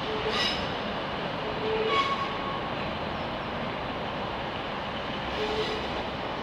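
ScotRail Class 158 diesel multiple unit running slowly through the station, a steady rumble with three short, high wheel squeals: about half a second in, around two seconds in (the loudest), and near the end.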